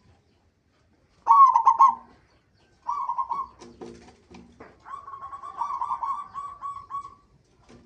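Zebra dove (perkutut) cooing: a short loud call about a second in, another near three seconds, then a longer run of quick coos from about five to seven seconds.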